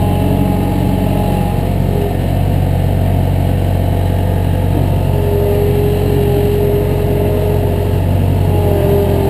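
Engine running steadily and close, with a low hum and a steady whine that comes in about halfway through.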